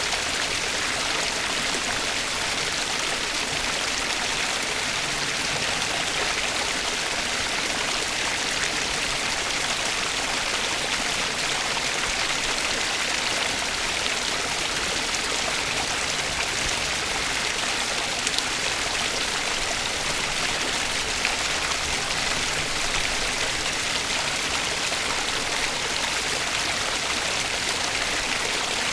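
Flowing water of a stream, a steady, even rush that does not change.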